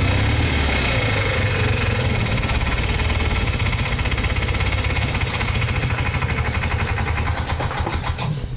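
Citroën 2CV AZAM's air-cooled flat-twin engine running as the car rolls slowly. Its regular firing pulses become more distinct and slow slightly toward the end as it eases off.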